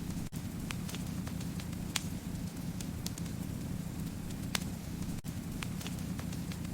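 Fireplace fire crackling: a steady low rumble of flame with sharp, irregular pops about once a second.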